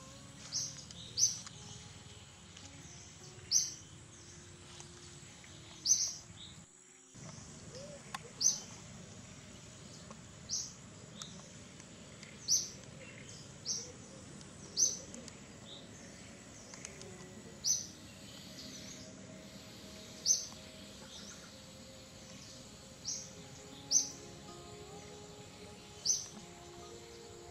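A bird calling with short, high chirps, one every second or two, over a steady background hiss. The sound cuts out briefly about seven seconds in.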